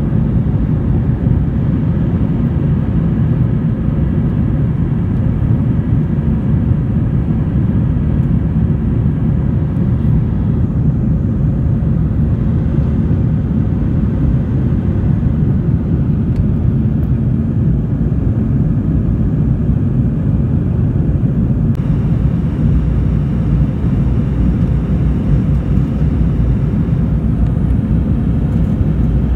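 Airliner cabin noise: a steady low rumble of engines and airflow heard from inside the passenger cabin in flight.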